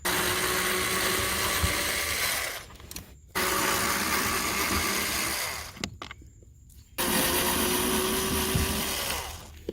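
Power screwdriver running three times, about two and a half seconds each with short pauses between, backing out the three T25 screws that hold a blower motor.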